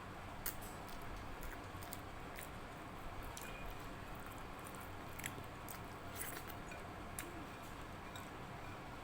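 A person chewing a mouthful of rice and dal, with scattered small wet clicks and smacks about a second apart over a steady background hiss.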